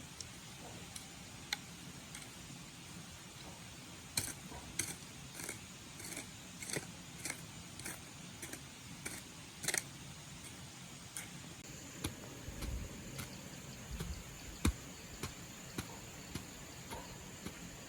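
A series of light, sharp clicks and taps at an uneven pace, about one or two a second, over a quiet steady hiss.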